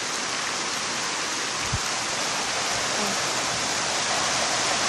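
Heavy rain pouring down in a downpour, a steady loud hiss of rainfall and running water, with one short knock about two seconds in.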